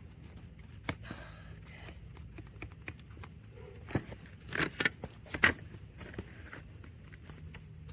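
Scattered metallic clinks, clicks and knocks of hand work on a car seat and its rails, with a cluster of louder knocks about four to five and a half seconds in.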